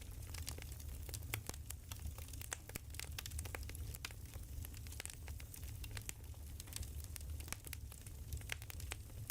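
Wood fire crackling: irregular sharp pops and snaps scattered at random over a steady low rumble.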